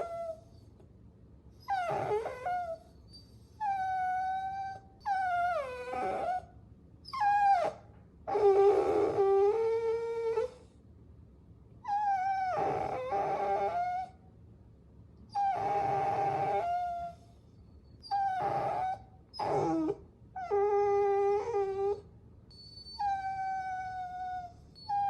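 Puppy whining and whimpering: a string of about a dozen high-pitched calls, each lasting up to two seconds with short pauses between, some sliding down in pitch and some held like a short howl.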